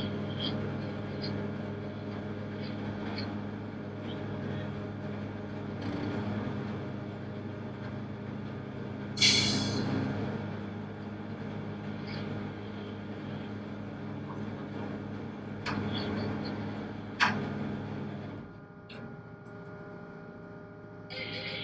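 A tugboat's diesel main engine runs steadily with a low hum. About nine seconds in there is a short, loud hiss, and a couple of sharp knocks follow near the end. The engine note then drops, as if throttled back.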